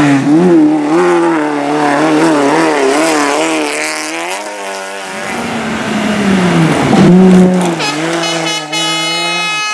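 Race car engine revving hard, its pitch wavering quickly up and down, climbing to a peak about four and a half seconds in and then dropping away. After a dip, the engine settles on a steady high note near the end.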